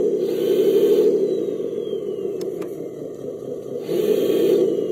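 A vehicle's motor running steadily, its pitch dipping and rising again just after the start and once more about four seconds in.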